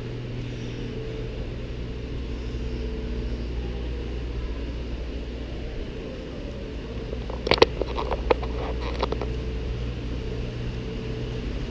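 Steady low mechanical hum of indoor machinery, with a few sharp clicks or knocks about seven and a half seconds in.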